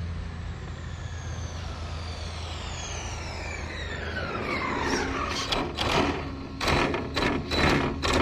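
Electric motor whine of a Losi 22S RC drag car falling steadily in pitch as the car slows over about four seconds. It is followed by a run of sharp, irregular knocks and rattles.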